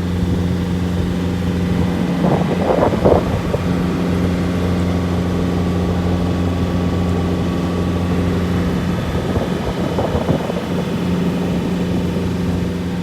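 Sightseeing boat's engine running at a steady low hum, with two brief rougher surges of noise about two seconds in and again near ten seconds.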